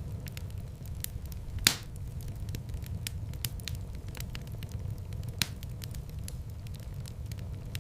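Wood fire in a fireplace crackling, with a steady low rumble underneath and many small pops, one sharp loud pop at about a second and a half in and another past the middle.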